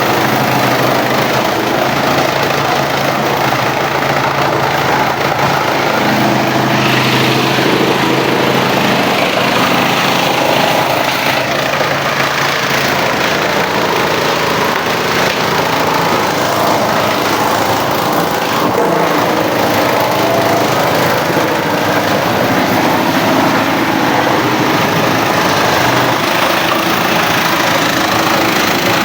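Engine-driven wood chipper running steadily under a loud, dense rushing noise, which gets brighter about seven seconds in.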